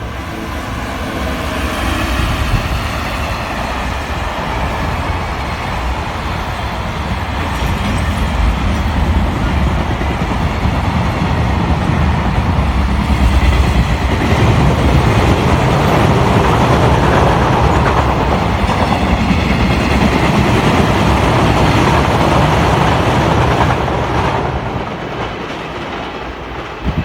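Container freight train passing at speed: wheels clattering over the rail joints, with a strong repeated banging from a wheel flat, a flat spot worn on a wagon wheel. It builds to its loudest in the middle and fades near the end.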